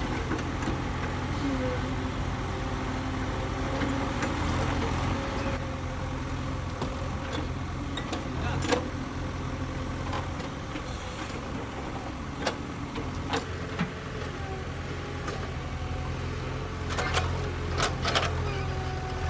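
Diesel engine of heavy earthmoving machinery running steadily, with sharp knocks and clanks now and then, several of them close together near the end.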